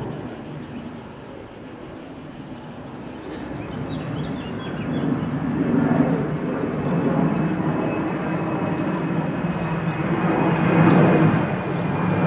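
Approaching train on an electrified line, its rumble growing steadily louder from about four seconds in.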